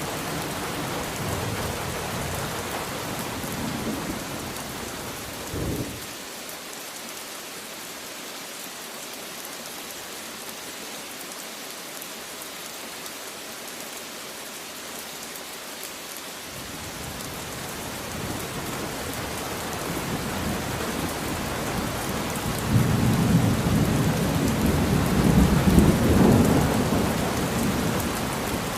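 Steady rain falling, with rolling thunder rumbling low underneath. The rumble drops away about six seconds in, builds back up after the middle and is loudest near the end.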